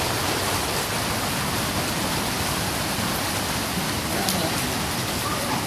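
Heavy rain falling, a steady even hiss of water, with one sharp drop-like click about four seconds in.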